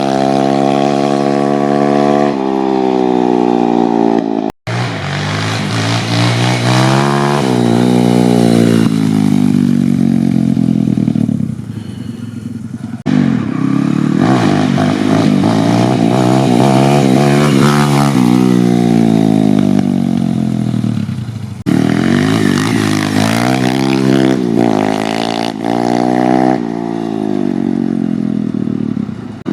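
YCF 150 Classic pit bike's 150cc four-stroke single-cylinder engine being ridden hard, revving up through the gears with its pitch climbing, dropping at each shift and climbing again, over and over. There is a brief off-throttle lull near the middle.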